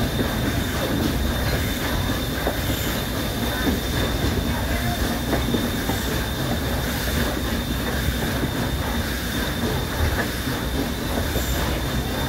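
Steady rumble and rattle of a steam-hauled passenger train heard from an open-air car, its wheels rolling over the rails, with a thin, steady high squeal running above it.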